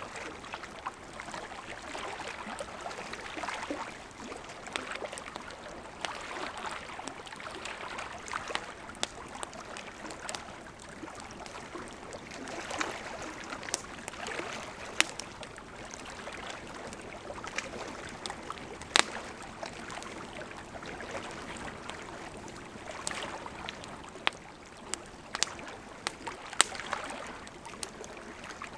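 Campfire of burning wood crackling: a steady hiss of flames with scattered sharp pops, the loudest about 19 seconds in.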